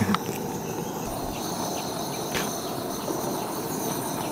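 Steady outdoor insect chorus, several high-pitched tones held at once, over a low even hiss, with a couple of light clicks.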